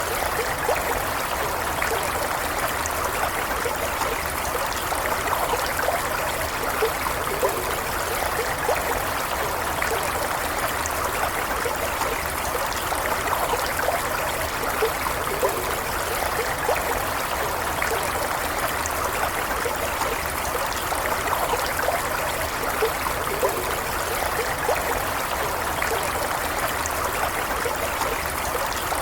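Stream water flowing steadily over stones, a constant rush with many small trickles and gurgles.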